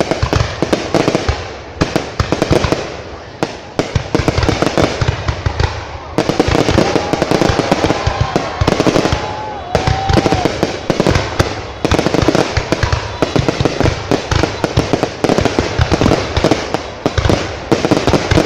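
Fireworks going off in a dense, continuous run of crackling and popping bangs, with a few short whistling tones in the middle.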